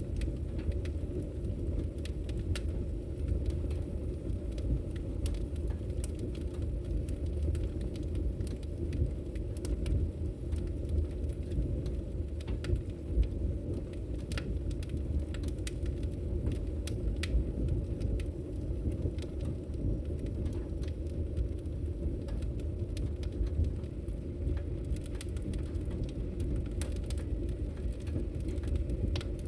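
A wood fire crackling in a fireplace: a steady low roar of flames with irregular sharp pops and crackles, several a second.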